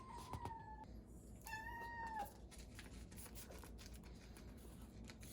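A kitten mewing twice: two thin, high calls, each under a second long, the second about a second and a half in. A few faint small clicks follow.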